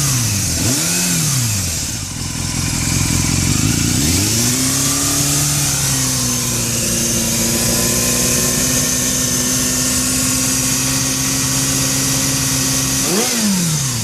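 Yamaha YZF600R Thundercat's inline-four engine, with a Yoshimura slip-on exhaust, is blipped up and down about a second in. It is then revved up and held at a steady raised speed for several seconds, drops back, and is blipped once more near the end. A steady high hiss runs over the engine sound: the abnormal noise, louder than it used to be, which the owner wonders may be a valve leak.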